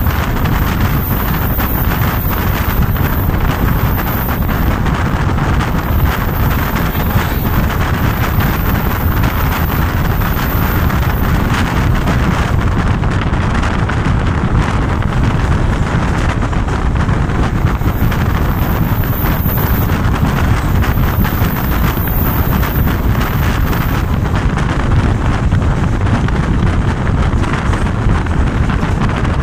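Loud, steady wind buffeting a microphone held outside a passenger train coach running at speed, over the low rumble of the train on the rails.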